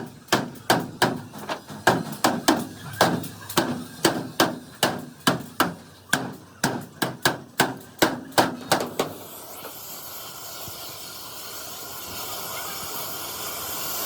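A hammer beating on the truck cabin's sheet metal, about three blows a second, each with a short metallic ring. The blows stop about nine seconds in. They are followed by a steady hiss that slowly grows louder.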